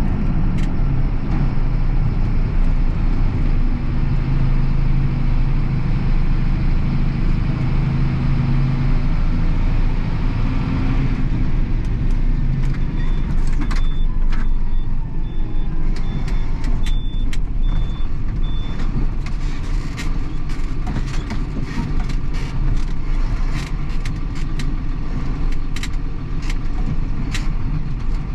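Tractor engine running steadily during slurry spreading, its note dropping about a third of the way in. Midway comes a run of short high beeps, about two a second, for several seconds, and in the second half frequent sharp clicks and knocks.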